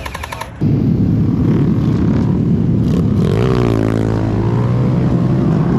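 Minibike engine running under heavy wind rumble on the microphone, starting abruptly about half a second in; midway its pitch dips and rises again, then holds a steady note.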